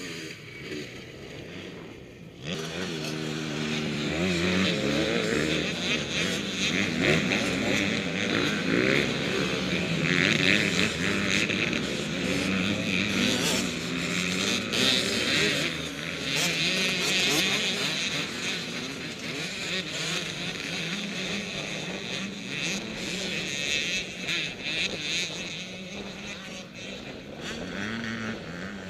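Motocross motorcycles racing, their engines revving up and down as they pass, getting suddenly louder about two and a half seconds in.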